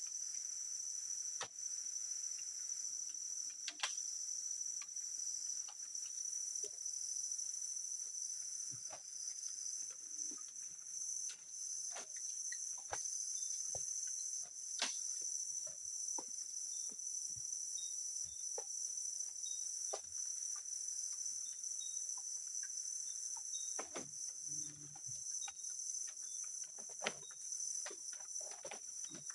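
Dense chorus of forest crickets and other insects, a steady high-pitched shrill, with scattered sharp clicks and snaps.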